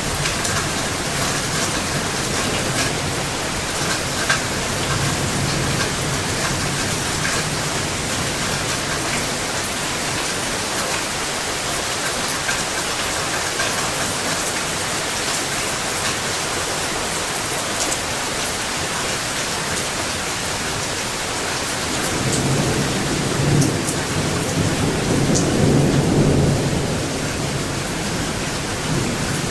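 Steady heavy rain, with a long rumble of thunder that builds about two-thirds of the way through, peaks, and dies back down near the end.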